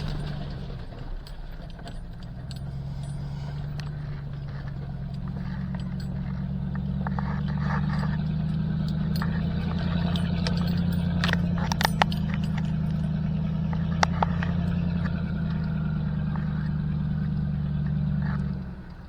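Ford 7.3 Power Stroke diesel V8 pulling a full-size truck slowly up a rough trail, with a steady drone. The engine picks up about two seconds in and eases off near the end. Sharp rattles and knocks from the cab and truck jolting come several times midway.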